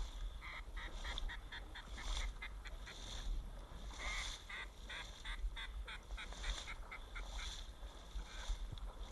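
Two runs of quick duck quacks, a few a second, over wind rumble on the microphone.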